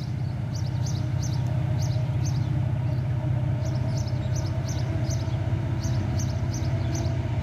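A steady low engine rumble with a faint hum above it, while birds chirp in quick short notes.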